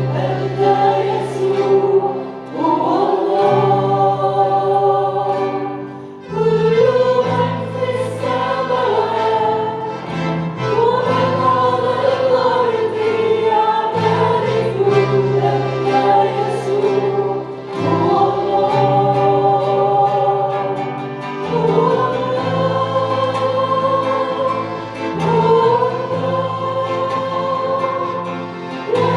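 Group of voices singing an Arabic worship hymn in unison, with instrumental accompaniment carrying steady bass notes that change every couple of seconds.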